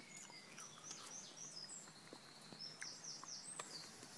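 Faint songbird chirping: a series of short, high sweeping notes, with a quick run of repeated notes a little before three seconds in. A few sharp faint clicks come in between.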